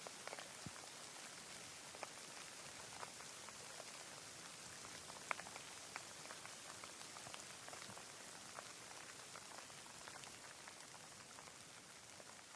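Rain falling: a soft, steady hiss with many scattered single drops ticking, one a little louder about five seconds in.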